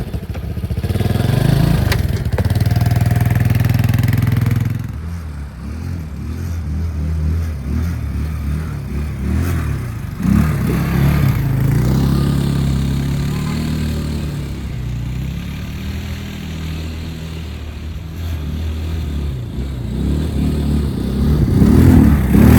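Small 150cc four-stroke ATV engine revving hard for a few seconds, then running at lower, varying revs with a short rise partway through, and revving up loud again near the end.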